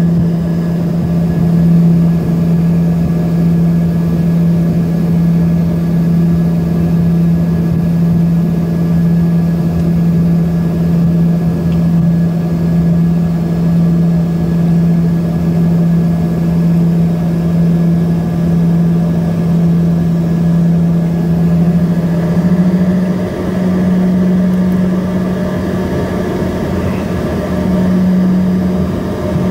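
Steady drone of an Embraer ERJ-145's rear-mounted Rolls-Royce AE 3007 turbofans at low thrust, heard inside the cabin while the aircraft taxis. It is a constant hum whose pitch rises slightly about two-thirds of the way through and again near the end.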